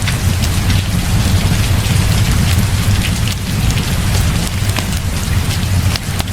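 Heavy rain falling steadily, with a constant deep rumble beneath it and scattered sharp ticks and crackles.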